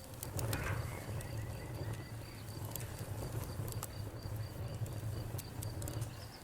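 Wood fire crackling, with scattered sharp pops over a steady low rumble of flames. A cricket chirps in a fast, even series throughout.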